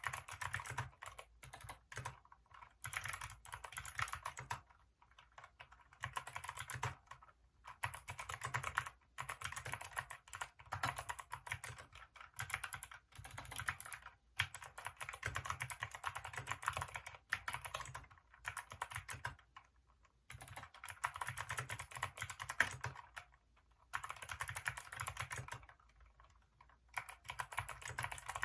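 Typing on a Hacker K611 mechanical keyboard with Kailh optical switches: fast runs of key clicks in bursts of a second or two, with short pauses between them.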